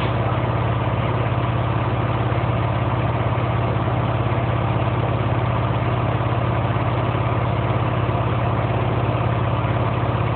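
5 hp Silver Bullet air compressor running: a steady, even drone with a strong low hum and a fast, regular pulsing from the pump.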